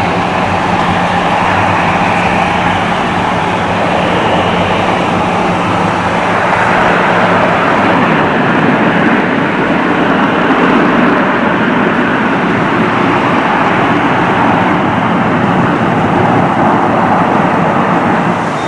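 Boeing 737-800's CFM56 jet engines with a loud, steady roar that swells about eight seconds in and holds, over a steady low hum.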